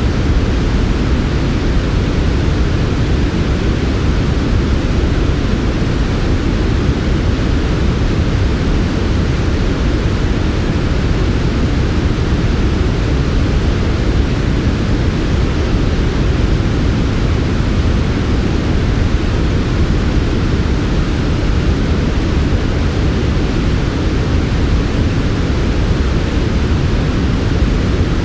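Steady, unbroken synthetic noise of the kind played for sleep: a smooth hiss weighted toward the low end, soft rather than bright, with no change in level.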